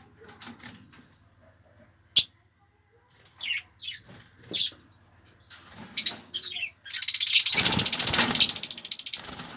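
Fischer's lovebirds (lutino) giving short, high chirps. About seven seconds in there is a loud burst of wing flapping and fluttering that lasts about two seconds. A single sharp click comes about two seconds in.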